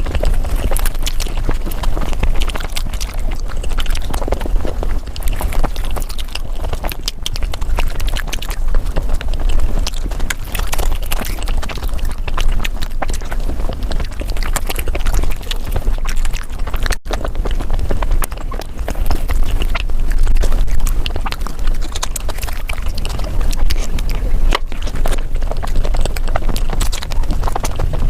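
A person chewing and smacking mouthfuls of palak paneer close to the microphone, sped up about five times, so the wet mouth clicks run together into a fast, dense clatter. There is a brief break about two-thirds of the way through.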